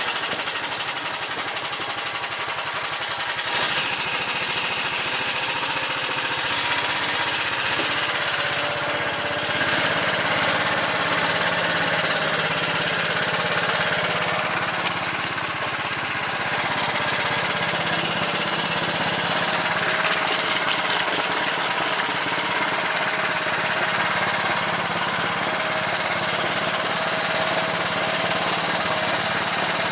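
Karakat all-terrain vehicle's engine running while driving, its note shifting a few times as the load and speed change.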